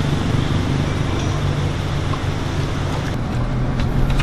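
Motor vehicle engine running with a steady low hum under a rushing road or wind noise.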